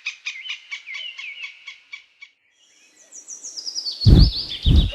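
Squirrel giving repeated sharp alarm chirps, about four a second, which stop about two seconds in. After a short gap comes a quick run of high chirps falling in pitch, with two heavy thumps near the end.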